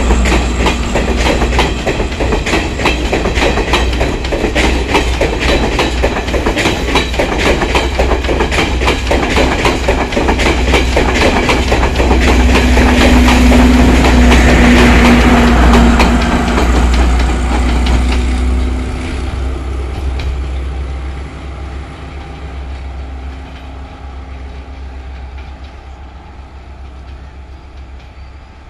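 Blue diesel multiple-unit passenger train passing close at speed, its wheels clicking quickly over the rail joints over a steady low engine hum. The sound is loudest a little past halfway, then fades steadily as the train draws away down the line.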